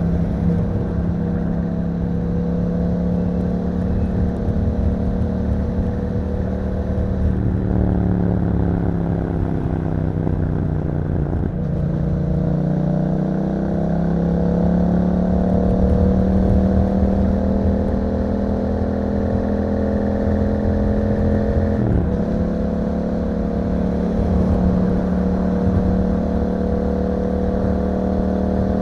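Yamaha MT-07's parallel-twin engine running through an Akrapovic exhaust while riding. The engine note falls for a few seconds from about eight seconds in and climbs back from about twelve seconds. There is a short, sudden dip in pitch near twenty-two seconds.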